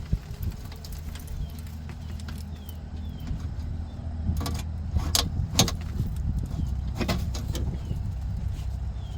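Sharp clicks and knocks of hand-tool work, a handful of them in the second half, as packed-in material is cleaned out of a truck's front-end part. They sound over a steady low machine hum, with faint short chirps higher up.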